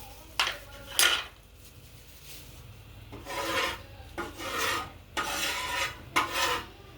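Spatula scraping across a frying pan in a series of rasping strokes while frying shami kabab patties: two short sharp scrapes near the start, then several longer ones in the second half.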